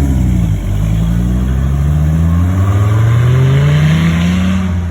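A car engine accelerating, its pitch dipping briefly near the start and then climbing steadily for about four seconds before falling away at the end.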